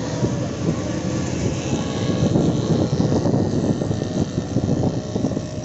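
Steady low rumble of a moving vehicle, with a ragged, fluttering texture like wind buffeting the microphone.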